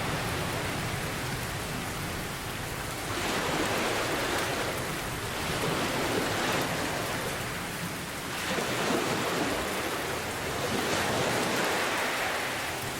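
Steady heavy rain hissing, swelling and easing every two to three seconds.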